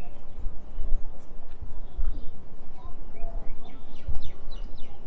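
Small birds chirping, a quick run of short falling chirps past the middle, over a low uneven rumble.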